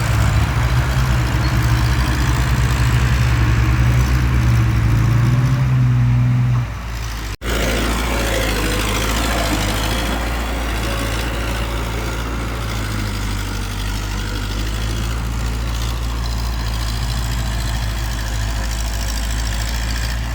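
Diesel engine of heavy earthmoving machinery running: a loud low drone that falls away about seven seconds in, then after a brief break a steadier engine sound runs on.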